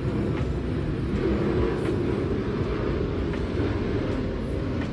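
Steady low rumbling drone of an engine running, with no sudden events or changes in pitch.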